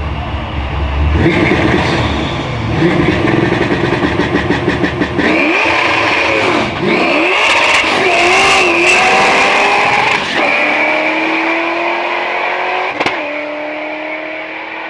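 Drag-strip car launching and running down the track at full throttle. Its engine pitch climbs and drops several times through the gears, then holds a steady tone that slowly fades away.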